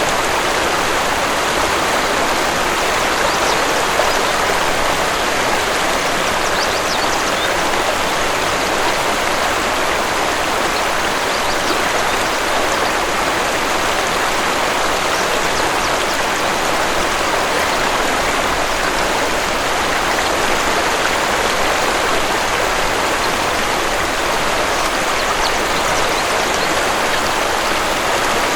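Waterfall's falling water running steadily: an even, unbroken rush of water.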